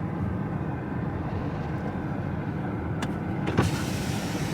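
Wind buffeting the microphone: a choppy low rumble, with a click about three seconds in and a knock just after it.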